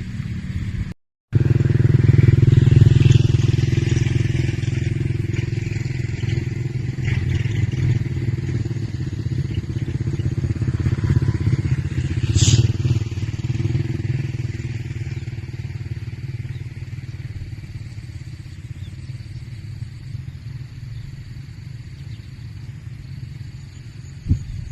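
A motorcycle engine running steadily, slowly getting quieter, with a brief dropout about a second in and a sharp click about halfway through.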